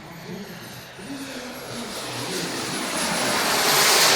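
Kingtech 320 model jet turbine of a Tomahawk Futura 3D RC jet making a pass. The roar builds steadily to its loudest near the end, over a thin high turbine whine that slides slowly down in pitch.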